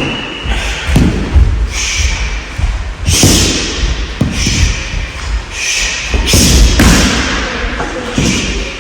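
Strikes from punches and kicks landing on a rolled-up mat used as a striking target: a quick, irregular series of thuds, about ten, some in rapid pairs, with reverberation from a large hall.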